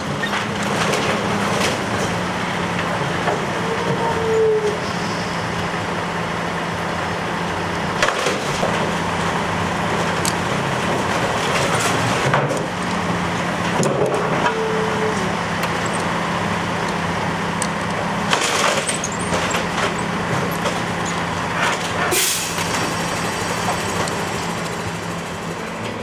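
Garbage truck running, its engine droning steadily, with several sharp clanks and hisses. A short whine comes twice, about ten seconds apart.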